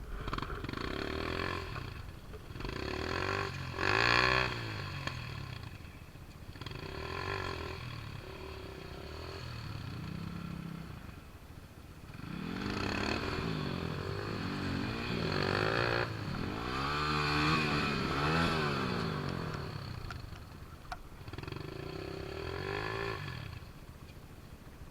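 Motorcycle engine revving in repeated bursts, its pitch rising and falling each time, with short lulls between the bursts.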